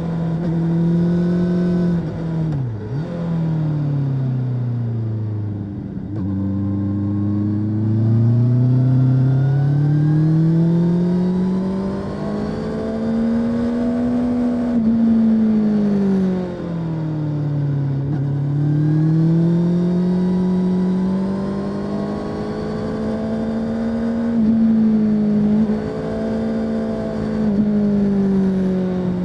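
Honda CB650R's inline-four engine through its stock exhaust, heard from the rider's seat while riding: the engine note climbs and falls with the throttle over several seconds at a time, with a few quick drops in pitch at gear changes, the sharpest about two and a half seconds in and again near the end.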